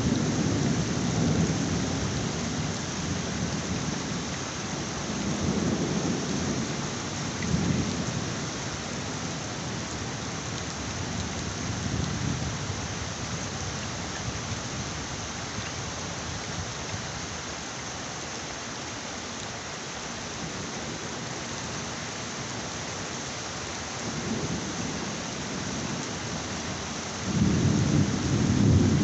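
Heavy rain falling steadily on a surface. Thunder rumbles low several times, and a louder roll of thunder starts near the end.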